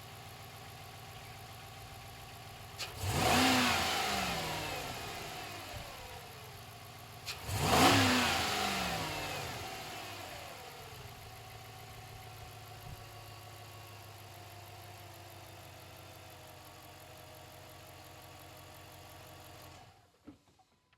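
Jeep Grand Cherokee 5.7 L HEMI V8 idling through its stock exhaust, blipped twice: each rev climbs sharply and falls back to a steady idle over a few seconds. The sound stops abruptly near the end.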